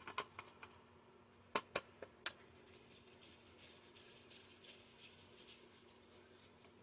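Small sharp clicks of metal tools and parts as screws are worked out of a microwave's control circuit board: a few sharp clicks in the first two and a half seconds, then a run of softer, quicker ticks, about three a second.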